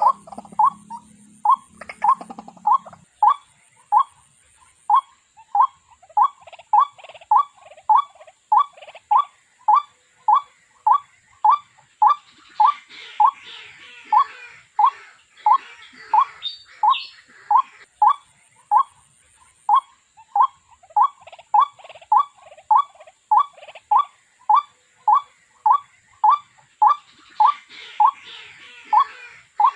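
White-breasted waterhen calling: a long, monotonous series of short rising notes, about two a second, with fainter higher chattering calls mixed in around the middle and near the end.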